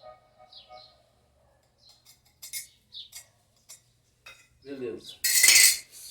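A few light metal clicks, then a loud clatter of metal pieces near the end.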